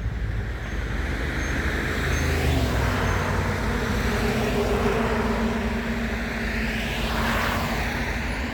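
Road traffic: cars running along a road, a steady mix of engine and tyre noise, with a vehicle seeming to pass near the end.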